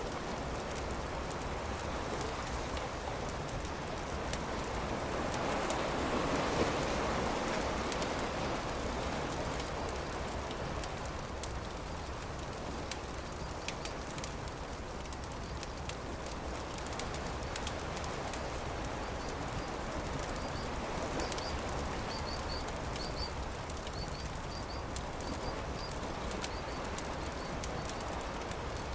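Campfire crackling with steady pops and snaps over a wash of waves that swells and recedes twice. A bird chirps a few short notes in the second half.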